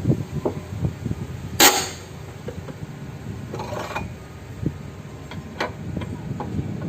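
Scattered metallic clinks and knocks of work on a truck engine, with one short, loud hissing burst about a second and a half in.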